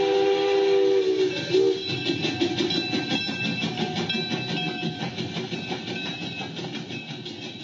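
A train horn sounds a sustained chord of several tones that ends about a second in, followed by a short toot. Then the train's running rumble and wheel clatter continue and fade away.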